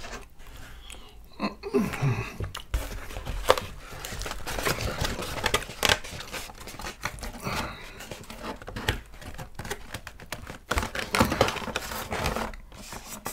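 Domino's pizza being bitten, torn and chewed close to the microphone: a dense run of crackles and clicks throughout.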